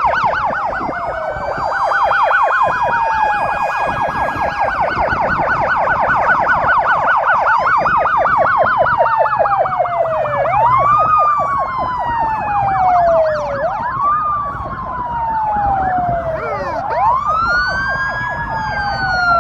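Several sirens sound at once: one warbles quickly up and down, while others wail, each rising quickly and sliding slowly back down every two to three seconds.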